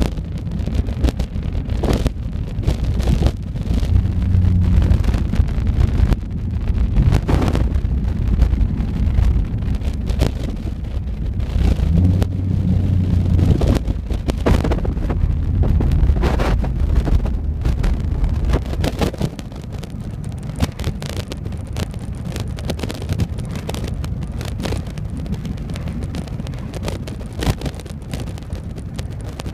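Nissan 350Z's 3.5-litre V6 with a Tomei Expreme cat-back exhaust, heard from inside the cabin while driving: a low exhaust drone that swells under throttle, then settles to a quieter cruise about two thirds of the way through. Irregular thumps and wind buffeting on the microphone run alongside it.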